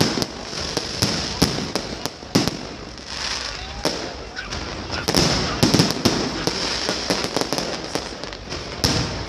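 Aerial fireworks bursting overhead in a dense, irregular barrage of sharp bangs and crackles, thickest a little past halfway.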